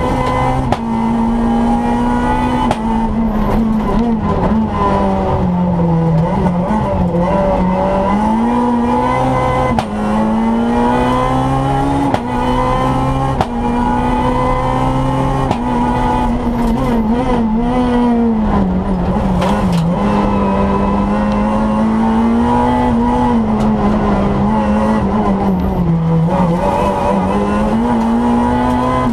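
Renault Clio R3 rally car's 2.0-litre four-cylinder engine heard from inside the cockpit, driven hard. Its pitch climbs again and again under acceleration and drops back several times, as on lifting for corners and shifting gear, with a few short sharp clicks.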